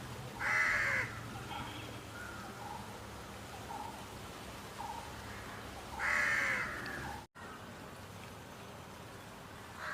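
Peacock calling: two loud, harsh calls of under a second each, about five and a half seconds apart, with faint chirps from other birds between them.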